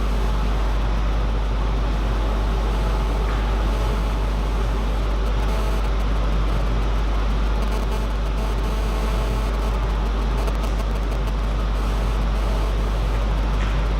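A steady low hum under a constant, even background noise, unchanging throughout.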